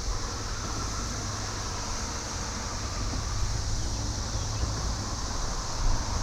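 Steady high-pitched drone of a cicada chorus over a low rumble as a commuter train approaches.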